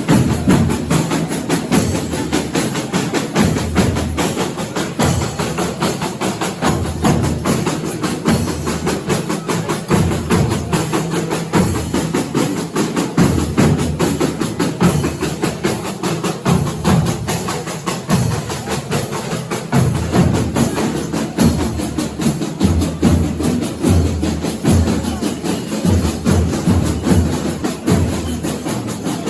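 Folia de Reis band playing: drums and tambourines beat a steady rhythm with other instruments underneath.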